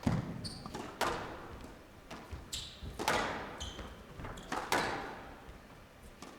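Squash rally: sharp knocks of the ball off rackets and court walls every second or two, each ringing on in the hall, with short squeaks of court shoes on the floor between strokes.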